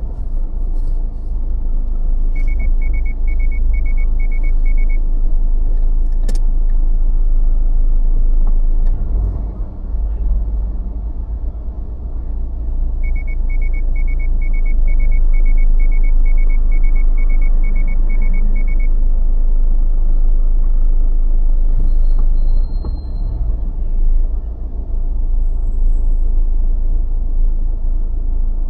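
A car driving on city streets, with a steady low road and engine rumble. A rapid high electronic ticking, about three a second, comes in twice for several seconds each. A single sharp click comes about six seconds in.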